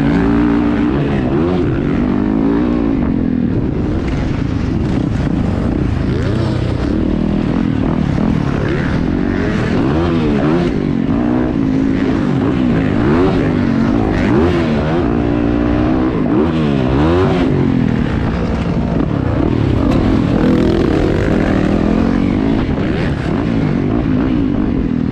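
Several motocross bikes racing, their engines revving up and down over one another with no let-up.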